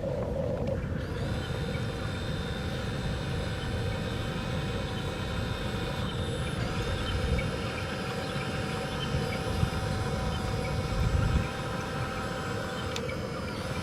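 A backhoe's engine runs with a low rumble, and several steady whining tones sit above it. The sound shifts briefly about a second in and again near the end.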